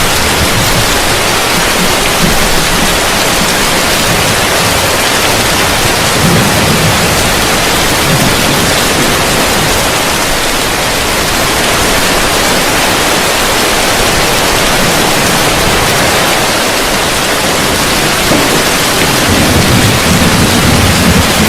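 Heavy rain falling steadily on a roof, a dense even hiss. A low rumble swells near the end.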